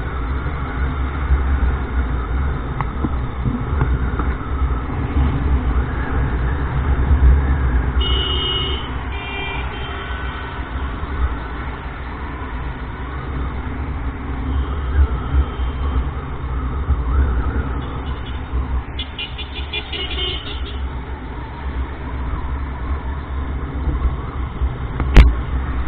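Wind buffeting an action camera's microphone, with road and traffic noise, on a motorcycle moving at highway speed. A vehicle horn sounds briefly about eight seconds in, and a rapid series of horn toots or beeps comes around twenty seconds in. A single sharp knock comes near the end.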